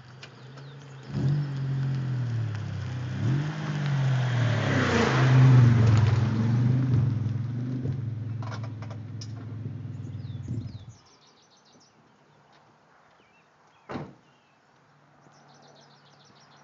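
Straight-through exhaust of a 1995 Mitsubishi 3000GT SL's 3.0-litre V6, run with a catalytic-converter delete and a glasspack muffler. The engine is blipped a few times, revved harder about five seconds in, and settles to idle before cutting off about eleven seconds in. A single sharp click follows a few seconds later.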